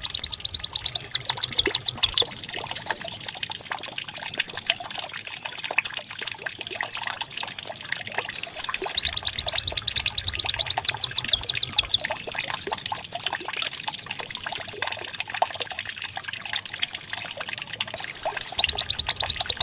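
White-eye (pleci) song, canary-like: fast runs of rapid chirps and sweeping whistles, the phrase repeating after short breaks about every nine seconds.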